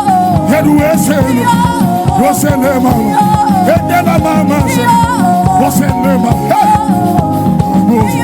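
Live gospel praise band playing loud, upbeat dance music with a steady beat, with voices singing or shouting over it.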